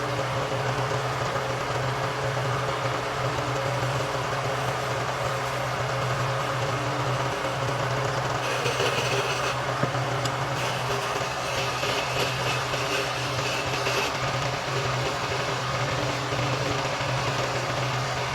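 Wood lathe motor running at a steady hum, with a higher-pitched hiss joining for about five seconds in the middle as a turning tool cuts the spinning wood.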